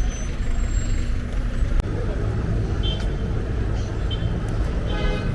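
Street traffic: a steady rumble of road vehicles, with a brief higher pitched sound near the end.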